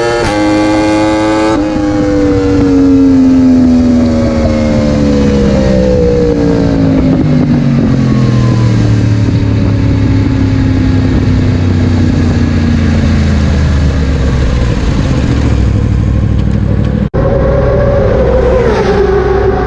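Motorcycle engine running: its pitch climbs briefly, then falls slowly over many seconds as the revs drop. Near the end the sound cuts off abruptly and another engine tone follows.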